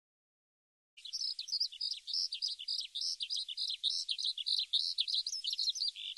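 Small birds chirping in a busy chorus of quick, high, short calls, starting about a second in.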